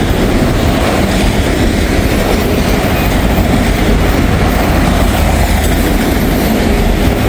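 A long freight train's cars rolling past at close range: a steady, loud rumble of steel wheels on the rails.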